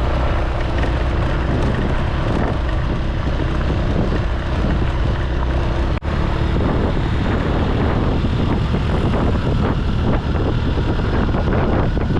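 A vehicle driving along a road: steady engine and road noise with wind buffeting the microphone, cut by a brief drop-out about halfway through.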